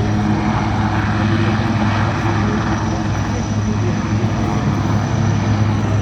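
Helicopter flying overhead: a steady, loud drone of rotor and engine that holds even throughout.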